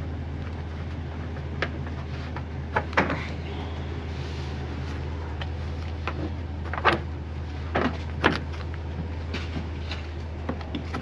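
Vehicle engine idling steadily, with a few short knocks and clunks of metal handling over it.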